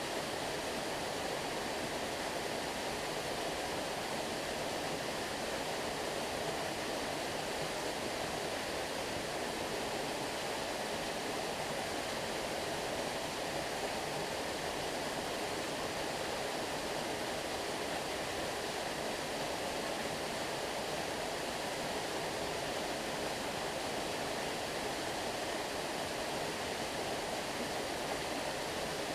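Flowing stream water, a steady even rush with nothing else standing out.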